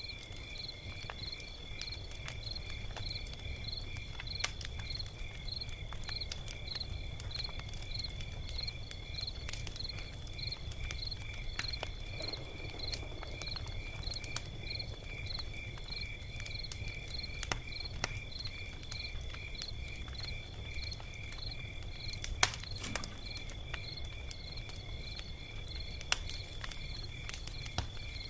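Log fire crackling with scattered sharp pops, one louder pop near the end, and a low rumble. Under it, crickets chirp steadily, about two chirps a second.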